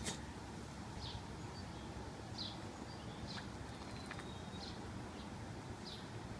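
Faint outdoor ambience with a small bird chirping, short high chirps repeating about once every second or so.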